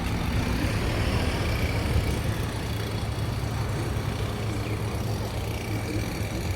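Motor vehicle engine running steadily: a low, even hum under a haze of outdoor noise.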